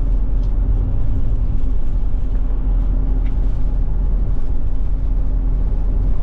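Forest River Forester Class C motorhome underway, a steady drone of engine and road noise heard from inside the cabin.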